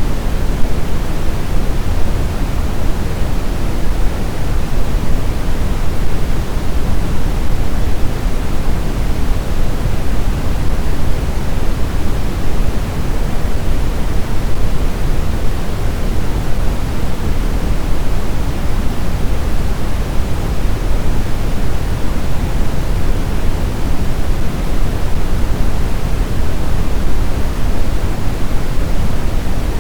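Snowstorm wind: a loud, steady, even rush with the most energy in the low end. It has no separate gusts or breaks.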